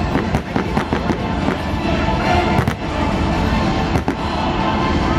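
Fireworks display going off: a dense run of bangs and crackling bursts, with several sharper reports standing out.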